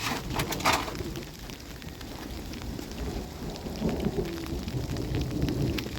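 Low, steady rumbling of wind buffeting the microphone in a snowstorm, with a few sharp clicks in the first second.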